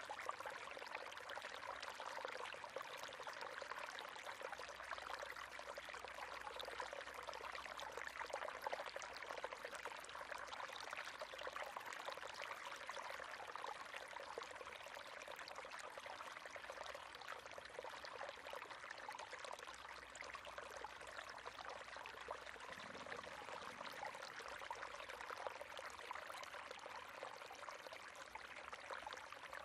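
River water running over stones, a steady splashing and trickling rush.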